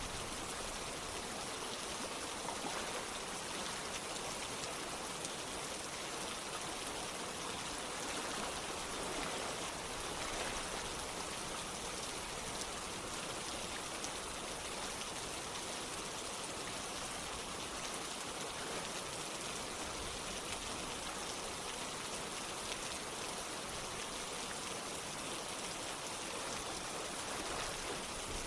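Steady rain together with running water, an even, unbroken rushing patter.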